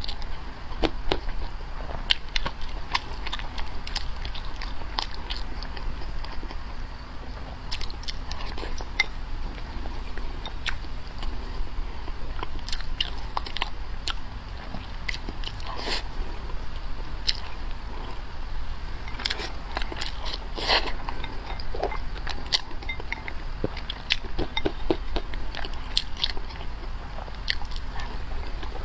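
A person eating close to the microphone, chewing and biting with irregular wet clicks and crunches.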